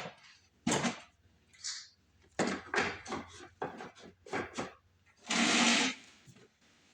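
Loose screws being handled and sorted by hand: a run of small clicks and rattles, then a short rustling clatter about five seconds in.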